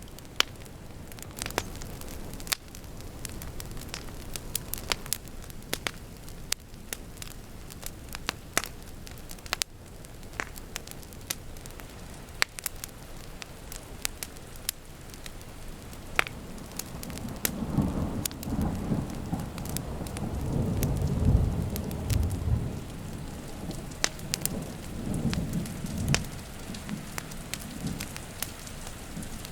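Wood fire crackling with frequent sharp pops over steady rain. About halfway through, a long low roll of thunder rumbles for roughly ten seconds and then fades.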